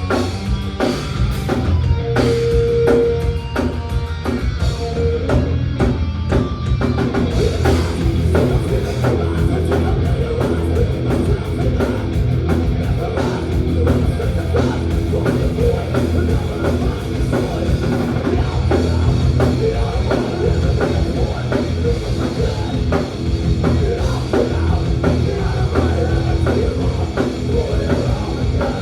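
Thrash metal band playing live, with distorted electric guitars and bass over fast drumming.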